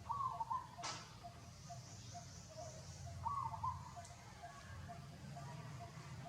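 Birds calling: a short arched call repeats about every three seconds over a steady run of short, evenly spaced low notes, with one sharp click about a second in.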